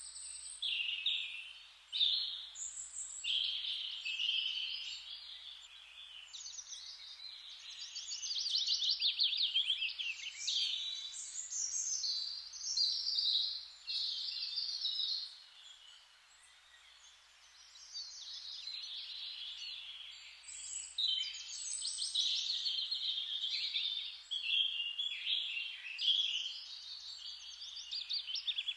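Several songbirds singing at once, overlapping quick warbled phrases and rapid trills, with a brief lull about halfway through.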